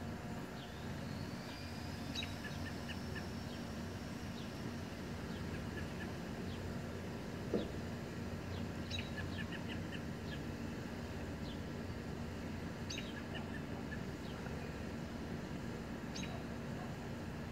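Small birds chirping in short, scattered notes, with one long thin whistle that rises and then holds about a second in, over a steady low hum. A single soft knock sounds about seven and a half seconds in.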